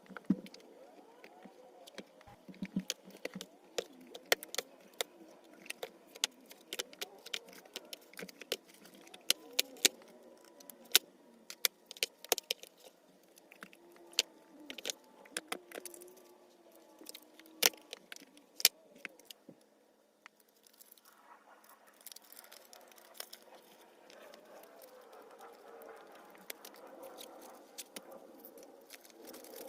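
A long series of sharp, light clicks and clinks of small hard objects being handled. After about two-thirds of the way through, these give way to a soft, steady hiss.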